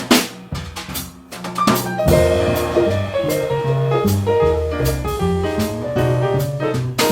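Live jazz combo playing: the drum kit plays alone for about the first two seconds, then the band comes in with a bass line and held chords over the drums. Loud drum hits return near the end.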